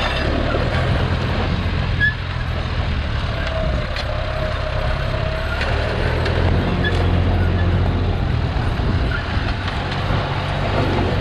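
Diesel engine of a John Deere 5065E tractor running under way, with a steady low drone that grows louder for a couple of seconds past the middle.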